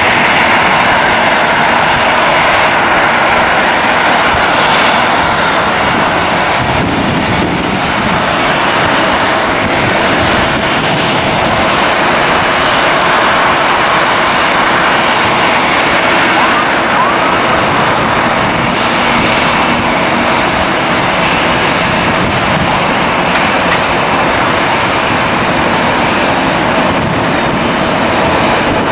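Steady jet engine noise from a Boeing 737-800 airliner's CFM56 turbofans, a continuous rushing sound with a faint hum in it, mixed with wind on the microphone.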